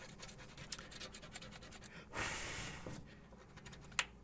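A lottery scratch-off ticket being scratched off with quick short strokes for the first second or so. About two seconds in comes a short puff of breath lasting under a second, and near the end a single sharp tap.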